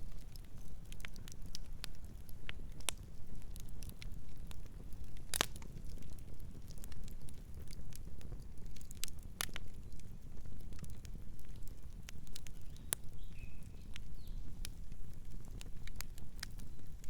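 Campfire burning: irregular sharp crackles and pops from the burning wood over a steady low rumble, with the loudest pop about five seconds in.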